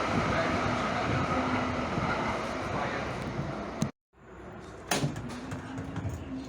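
Steady rumbling noise of a moving vehicle, heard from inside, cut off abruptly about four seconds in. A quieter background follows, with a couple of sharp knocks like a door or latch.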